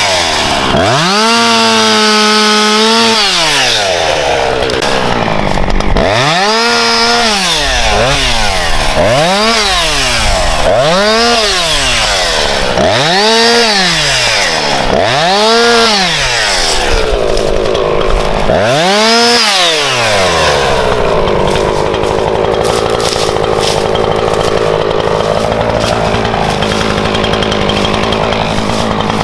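Husqvarna two-stroke chainsaw revved up and down over and over, about eight rises and falls in twenty seconds, then running steadily at a lower speed.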